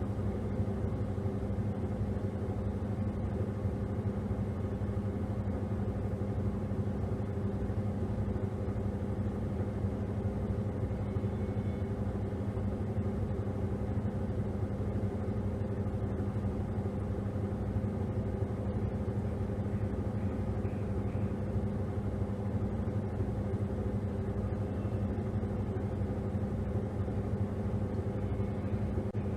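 Top-loading washing machine running with a steady motor hum and low rumble that holds even throughout.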